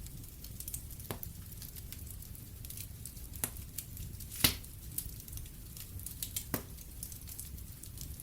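Fireplace fire crackling: scattered sharp pops over a low steady rumble, the loudest pop about four and a half seconds in.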